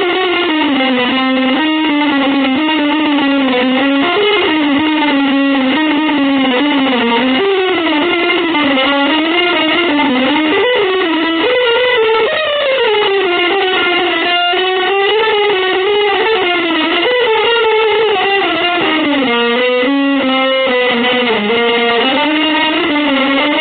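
Electric guitar playing a long, unbroken melodic line that slides and bends between notes, in a free-jazz style.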